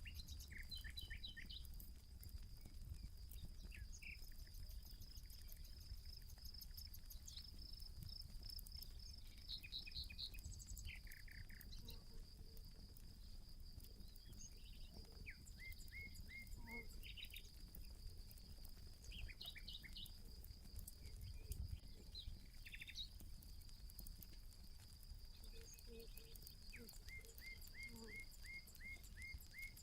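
Birds calling in short repeated chirps, one of them in a quick even series near the end, over a steady high-pitched insect drone. A campfire crackles faintly underneath.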